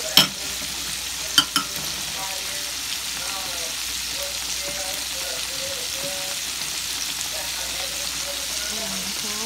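Coated pork chops frying in hot oil in a skillet: a steady, even sizzle. Three sharp clicks stand out, one just after the start and two close together about a second and a half in.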